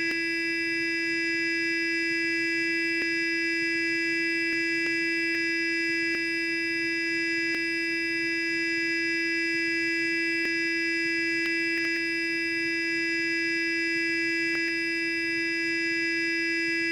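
Sonic electric toothbrush running with a steady buzz at one unchanging pitch, rich in overtones, with a few faint ticks scattered through it.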